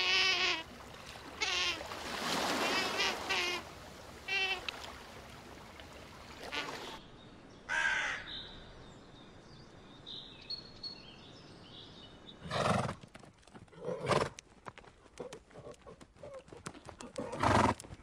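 A string of animal calls: a sea otter's wavering, high squeals over the first few seconds, then a few short, harsh crow caws spaced seconds apart. Near the end comes a louder, lower call.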